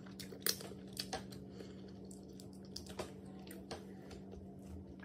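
Close-miked chewing and lip smacking of a mouthful of food, with a few sharp wet clicks from the mouth, over a steady low hum.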